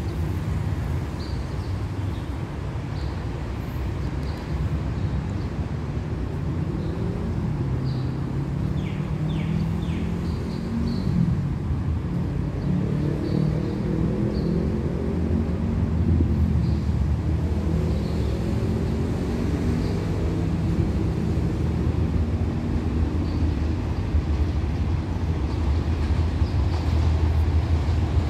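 Low engine rumble of an approaching diesel-hauled train, with an engine tone that rises and falls in the middle and the rumble growing slightly louder near the end.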